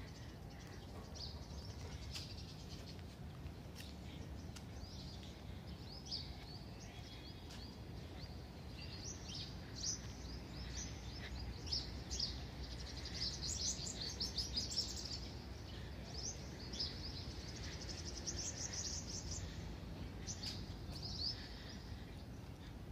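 Small birds chirping and twittering in many short high calls, busiest around the middle, over a steady low background hum.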